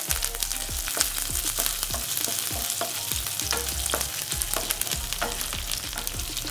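Green chillies, chopped garlic and curry leaves sizzling and crackling in hot oil in a frying pan, with a wooden spatula stirring them through the pan.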